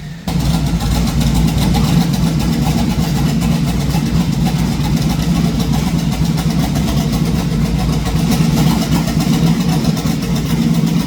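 Twin-turbo 427 LS V8 in a Trans Am running loud and steady at an even engine speed on a hub dyno. It cuts in abruptly about a third of a second in.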